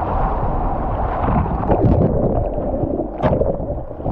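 Ocean surf churning and splashing close to the microphone, with a sharper splash about three seconds in.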